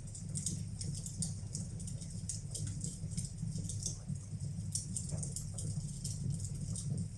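Fireplace fire crackling: irregular small pops and crackles over a steady low rumble.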